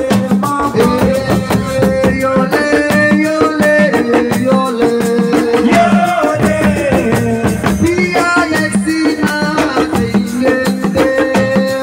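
Live assiko band music: fast, dense drum and rattle percussion with a pitched melody line over it.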